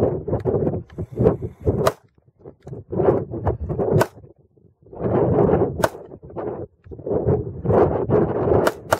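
Glock 21 .45 ACP pistol firing single shots, about four of them spaced a second or two apart. A rough rumbling noise fills the gaps between the shots.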